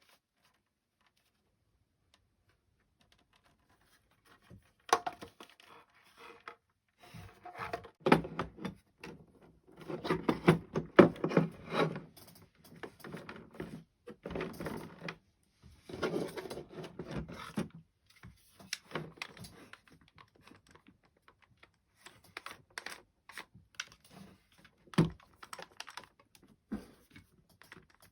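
Hard plastic and metal parts of a cordless drill being handled and worked on: irregular clicks, knocks and rattles in clusters, starting about four seconds in.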